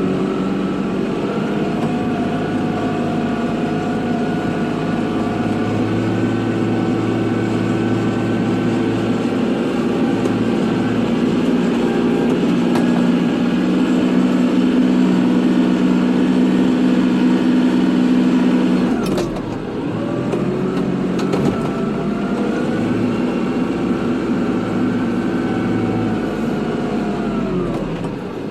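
Kubota tractor's diesel engine running steadily while plowing snow. Its pitch and level dip briefly about two-thirds of the way through, with a few clicks, and dip again near the end.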